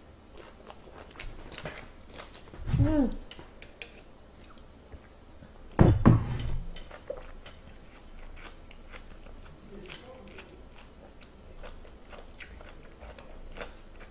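A person chewing a mouthful of food close to the microphone, with faint wet clicks and smacks. A short hummed vocal sound comes about three seconds in, and a louder, sudden muffled vocal sound around six seconds in.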